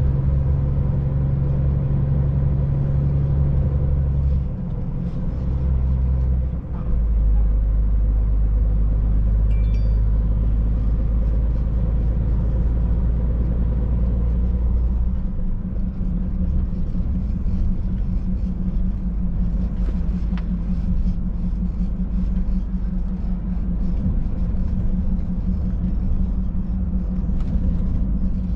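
Scania truck engine and road noise heard from inside the cab while driving, a steady low drone. The drone changes pitch around five and seven seconds in and again about halfway through.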